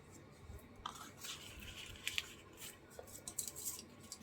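Faint rustling and small scattered clicks of craft materials being handled on a desk.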